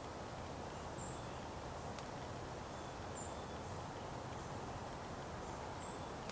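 Steady outdoor background hiss with three short, high-pitched bird chirps, about two to three seconds apart.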